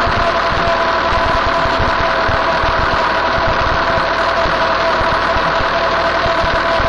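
Farm tractor running steadily while working, its engine drone joined by a steady high whine.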